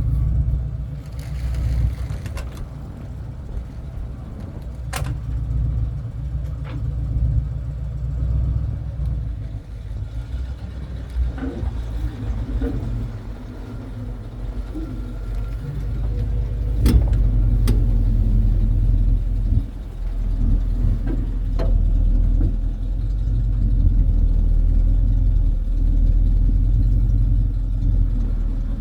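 1984 tow truck's engine running as the truck backs up with a car in tow, a steady low rumble that grows louder a little past halfway. A few sharp knocks sound over it.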